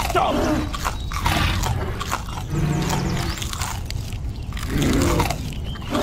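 Dubbed monster sound effects: a dinosaur growling and crunching as it bites, in several separate bursts.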